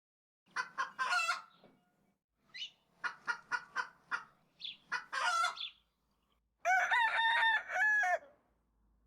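Rooster clucking in short bursts, then giving one long cock-a-doodle-doo crow near the end.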